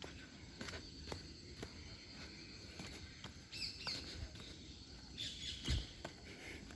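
Birds chirping twice in short bursts over the steady crunch of footsteps on a path, with a single louder thump near the end.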